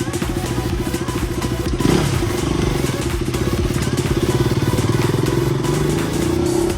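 KTM RC motorcycle's single-cylinder engine running steadily, with a sudden rev about two seconds in that falls back to a steady run.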